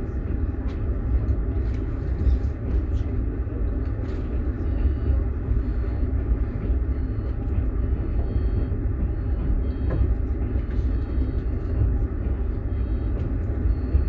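Passenger train running, heard from inside a platzkart sleeper carriage: the steady low rumble of the wheels on the rails, with a few faint ticks.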